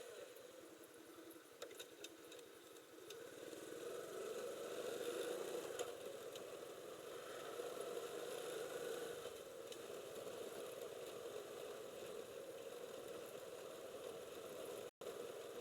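Motorcycle engine running steadily as the bike is ridden, a little louder a few seconds in.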